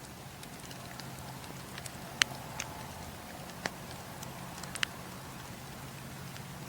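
Campfire crackling: a steady low rumble of burning with scattered sharp pops and snaps, the loudest a little over two seconds in, and others near the middle and just before the end.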